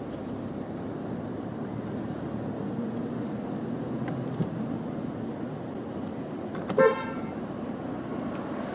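Steady street traffic noise with one short car horn toot about seven seconds in.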